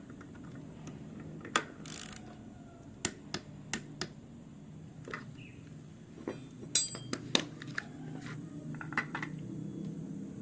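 Metal engine parts and hand tools clinking and tapping at irregular intervals as a Honda CB150R engine is assembled, with a short hiss about two seconds in.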